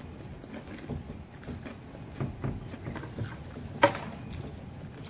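People chewing a snack mix of dried berries, coconut, cookie drops and almond slices close to the microphone: soft, irregular crackles and mouth sounds, with one sharp click about four seconds in.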